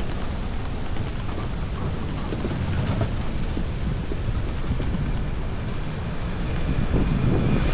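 Strong wind buffeting the microphone, a steady low rumble over the general noise of a city street.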